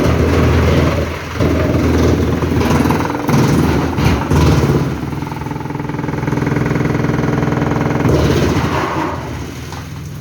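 Heavy engine running loud, labouring unevenly and surging in the first half, then settling into a steady drone before surging once more near the end.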